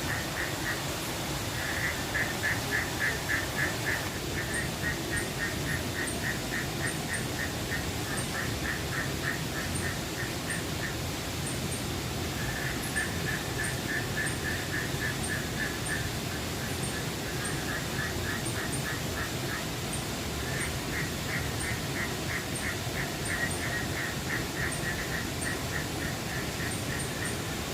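Animal calls: long runs of rapid pulsing trills, each several seconds long and repeating with short gaps, with faint high ticks scattered through, over a steady background rush.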